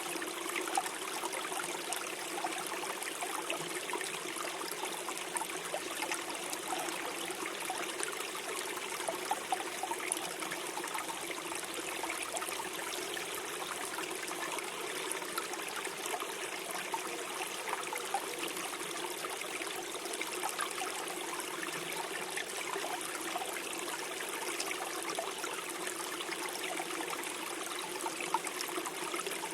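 Small forest stream flowing and gurgling steadily over stones, a continuous rush of water with many small trickles and splashes.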